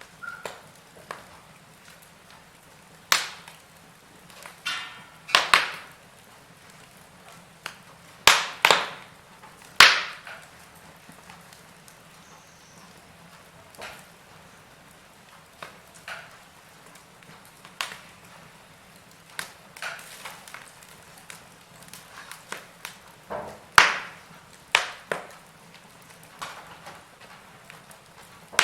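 Wood fire burning in a fireplace, crackling with irregular sharp pops and snaps, some of them loud, a second or more apart.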